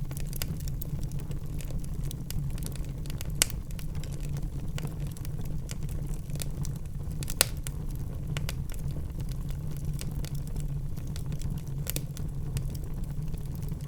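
Wood fire crackling in a fireplace: many small irregular pops over a steady low rumble of flames, with two sharper, louder pops about three and a half and seven and a half seconds in.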